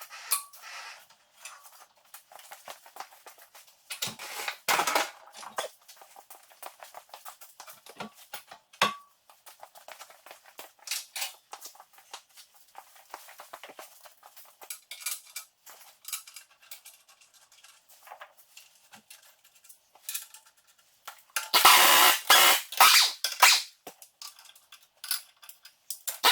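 Hand tools clinking and scraping on metal in irregular light clicks, with a louder run of clattering about 22 seconds in.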